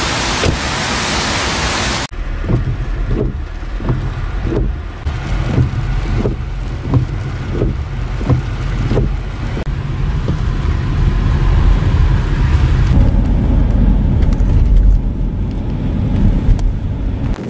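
Heavy rain as an even hiss, then after a sudden cut about two seconds in a deep rumble of rain with a run of short soft knocks, likely as heard from inside the car.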